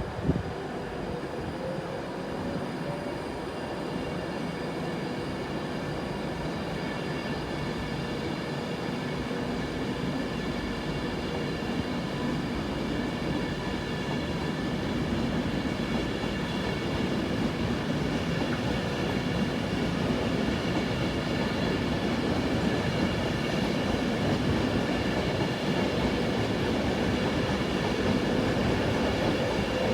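A train running at the station, its sound growing slowly louder over half a minute, with steady whining tones over the rumble. A single brief knock sounds just after the start.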